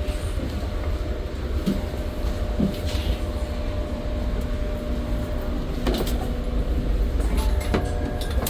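Metra commuter train running: a steady low rumble with a few sharp clicks and knocks in the second half.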